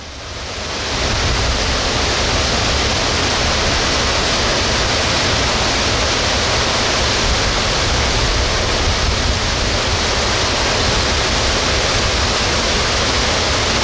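Large waterfall running at high flow after heavy rain, roaring steadily: a dense, even rush of pouring water that swells in over the first second and then holds.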